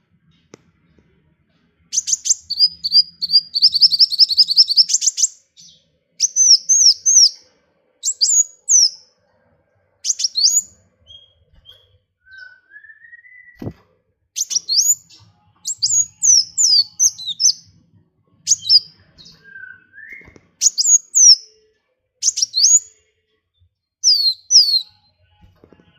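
Small songbird singing after a short quiet start. It opens with a rapid trill, then gives short phrases of sharp, high falling chirps every second or two, with a couple of rising whistles in between.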